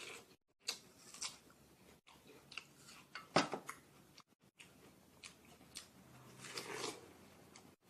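Close-up biting and chewing of juicy watermelon: irregular wet crunches, the sharpest about three and a half seconds in, and a longer wet chewing stretch near the end.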